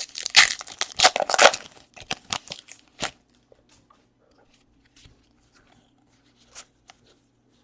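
Trading card pack wrapper crinkling and tearing as it is opened, for the first few seconds, then a few faint clicks of cards being handled.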